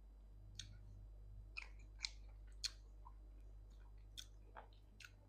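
Faint chewing and eating noises close to the microphone: scattered soft wet clicks and smacks of a mouth working food.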